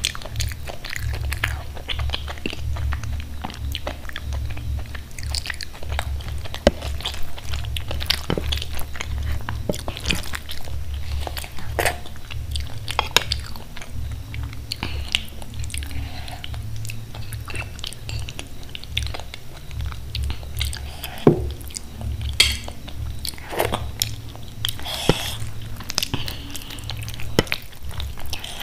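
Close-miked chewing of khichdi and side dishes eaten by hand, with many small wet mouth clicks and lip smacks.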